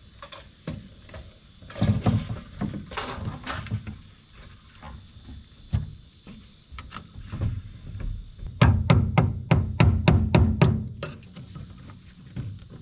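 Hammer blows on a screwdriver tapping the lock ring of a new fuel pump module into the fuel tank: scattered knocks at first, then a quick run of about five sharp taps a second for a couple of seconds.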